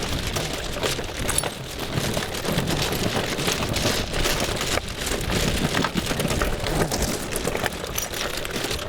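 All-terrain skateboard's big tyres rolling over rough, gritty ground: a continuous dense crunching crackle of many small clicks, at an even level.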